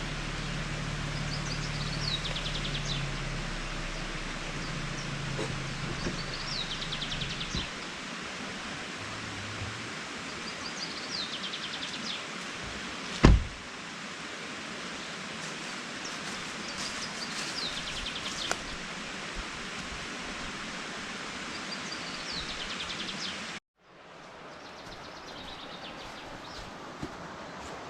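Outdoor ambience with a steady rushing hiss and a small songbird repeating a short, falling trilled song about every five seconds. There is one sharp knock about halfway through.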